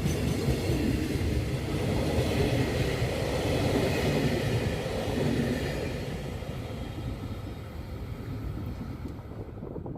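Freight train rolling past, its wagons rumbling steadily on the rails, then fading away over the last few seconds as it recedes.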